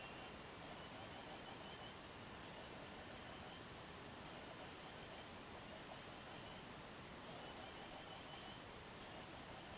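High, thin sunbird song played over and over from an MP3 lure for kolibri wulung: bursts of rapid wavering trills about a second long, repeating at a steady pace with short pauses between them.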